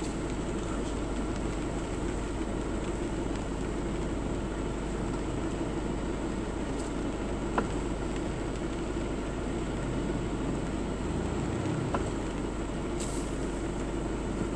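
Steady running noise of a car being driven, with a couple of sharp clicks about halfway through and near the end.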